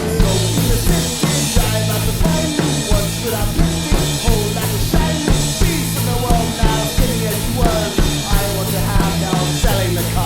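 A band playing an instrumental passage of a rock song: a drum kit keeps a steady beat under a held bass line and other pitched instruments.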